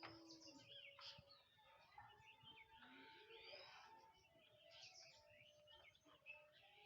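Several birds chirping and calling at once, faintly: many short overlapping chirps and whistles.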